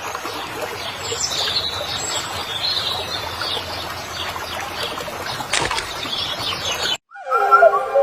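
Small birds chirping over a steady noisy background, with one brief sharp click about two-thirds of the way through. The sound cuts out briefly near the end and a music track with whistle-like tones begins.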